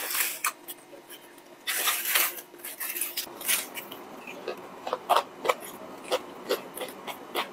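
Bites into a crispy fried chicken drumstick, with a loud crunch about two seconds in, then close-up chewing: repeated short crunches and mouth clicks.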